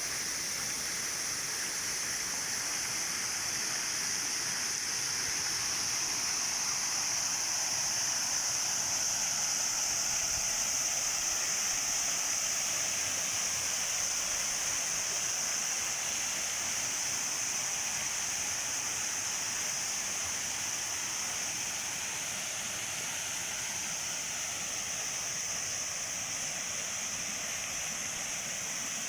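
Steady rush of water pouring down an artificial rock waterfall into a pond.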